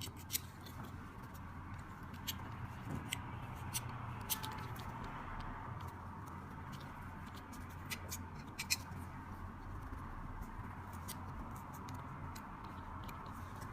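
Faint scattered clicks and light scratching from small handwork on a lighter's insert, over a steady low hum.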